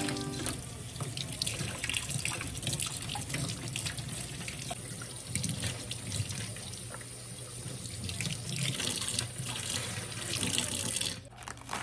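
Water running from a kitchen tap into a sink, a steady splashing stream that is shut off near the end.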